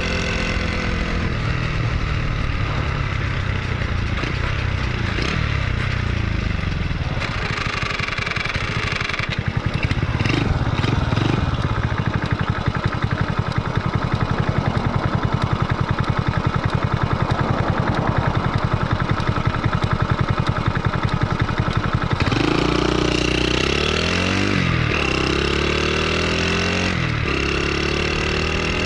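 Honda Super Cub single-cylinder engine running. Through the middle stretch it has a fast, even pulse. From about two-thirds in it revs up and drops back four times in a row, as when accelerating through the gears.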